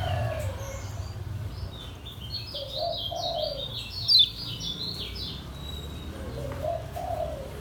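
Kecial kuning white-eye singing a quick, chattering run of high notes in the 'ngejos' style, lasting about four seconds from a second in, with one sharp louder note near the middle. A dove coos low in the background three times.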